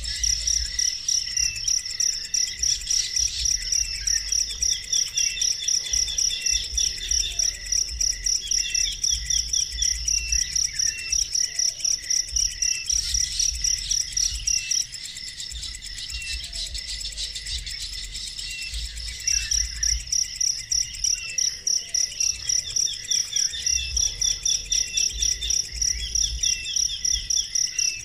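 An insect chirping in a steady high-pitched pulse, about three chirps a second, falling silent for a few seconds in the middle and then resuming, with short bird chirps alongside.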